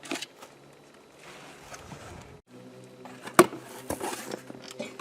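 A cardboard shipping box being opened and its packing handled: rustling and scraping with scattered knocks, the sharpest about three and a half seconds in.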